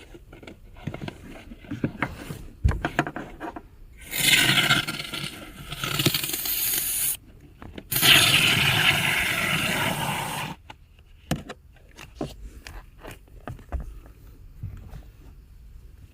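Aerosol can of evaporator foam cleaner spraying in two long hissing bursts of about three seconds each, with handling clicks and knocks before and after.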